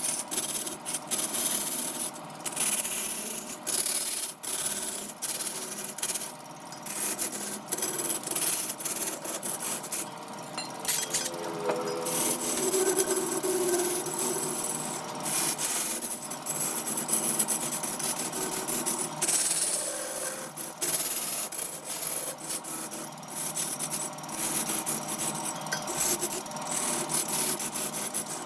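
A wood lathe turning a workpiece while a hand tool is held against the spinning wood: a steady rasping, scraping noise, broken by brief dips, with a faint hum of steady tones underneath.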